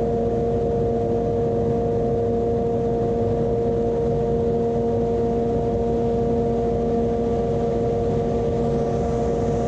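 Heat Wagon electric heater running at full output, its fan and all three heating stages engaged: a steady blower rush with a constant hum of a few fixed tones.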